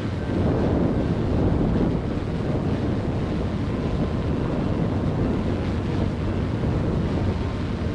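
Wind buffeting the microphone over a steady low rumble, a little stronger during the first two seconds.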